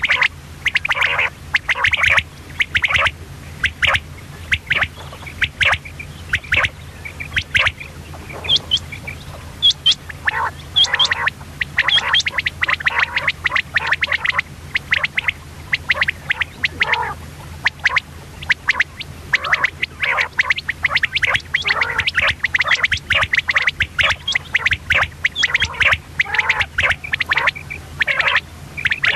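Female common quail calling: a dense, rapid run of short, sharp calls that goes on without a break. A steady low hum lies underneath.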